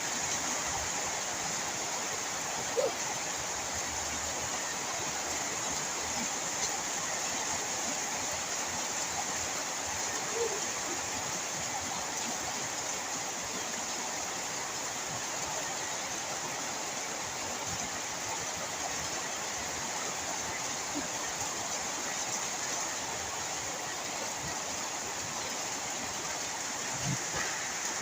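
Heavy rain pouring down, a steady even rushing hiss, with a short sharp sound about three seconds in and a few faint brief sounds later.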